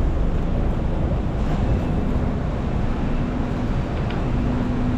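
BTS Skytrain electric train running: a steady low rumble, with a steady hum that grows stronger from about halfway in.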